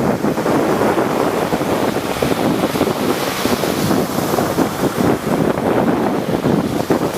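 Rough sea surf: waves breaking and washing in a continuous loud rush, with wind buffeting the microphone.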